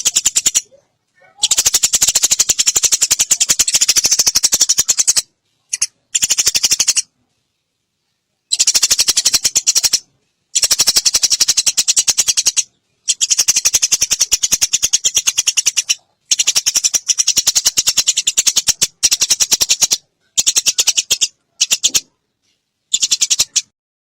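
Eurasian tree sparrows (burung gereja) in fighting chatter: fast, harsh, high chirps run together in bursts of one to four seconds, broken by short gaps.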